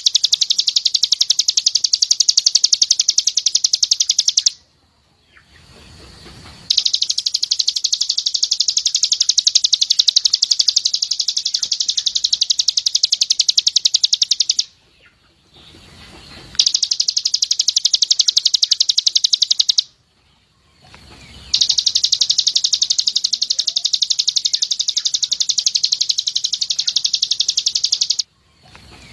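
A songbird's rapid-fire 'tembakan' song: long runs of fast, evenly repeated high notes lasting several seconds each, broken by short pauses about four, fifteen and twenty seconds in and again near the end. It is a master recording used to teach captive white-eyes this song style.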